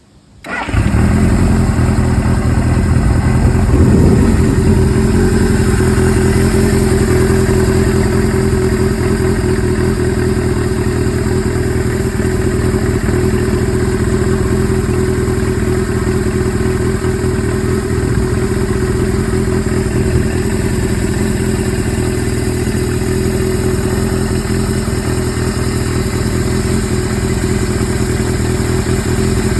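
Suzuki GS-series air-cooled inline-four motorcycle engine on CVK carburettors, coming in sharply about half a second in and then idling steadily, with a brief rise in revs around four seconds in.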